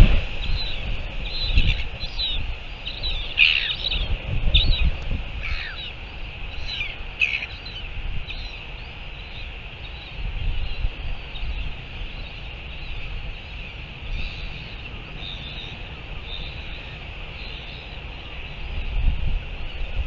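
Outdoor birds chirping and calling in short falling notes, busiest in the first eight seconds and sparser after. Underneath is a steady high buzz like insects, with gusts of wind rumbling on the microphone.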